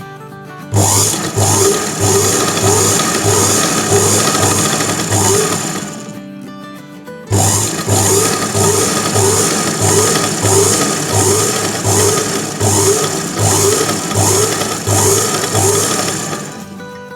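Sewing machine stitching a pico hem on a saree edge at an even, slow pace, in two runs with a short stop between them, about three regular strokes a second.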